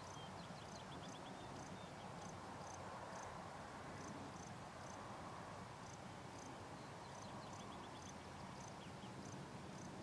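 Faint outdoor evening sounds: small birds giving short high chirps, often in pairs, with a brief fast trill near the start and another near the end, over a steady low background rumble.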